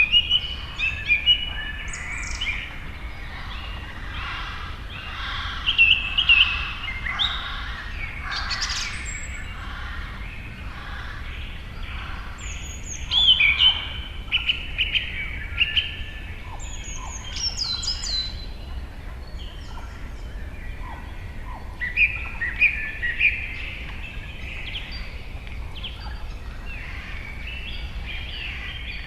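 Several birds chirping and calling in quick, overlapping phrases over a steady low rumble.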